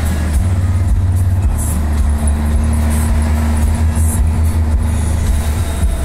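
Scania 111S truck's straight-six diesel engine running with a steady, deep hum.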